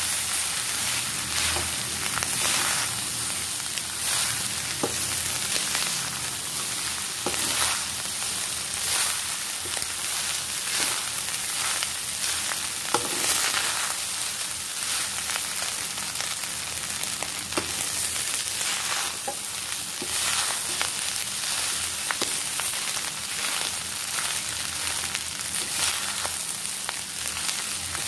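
Chicken fried rice sizzling in a hot pan as a spatula stirs and tosses it, with frequent clicks and scrapes of the spatula against the pan over a steady hiss.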